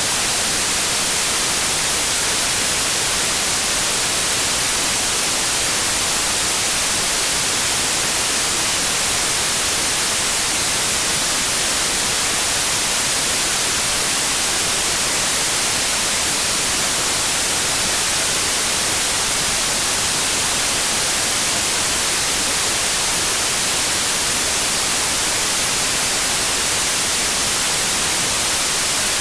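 Electronically generated white noise: a steady, even hiss, brightest in the high end, that never changes.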